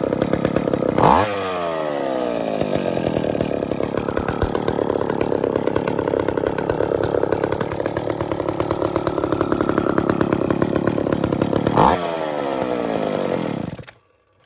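McCulloch 10-10 two-stroke chainsaw running after its fuel tank repair with a new gasket and hose kit. It is revved sharply twice, about a second in and again near the end, each time dropping back to a steady run. The engine is then shut off just before the end.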